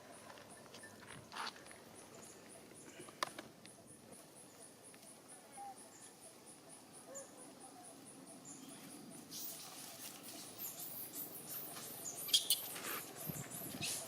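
High, thin animal squeaks and squeals that begin about nine seconds in and grow louder. Under them runs a steady, fast-pulsing high chirp, about four or five pulses a second, that stops as the squeaks take over.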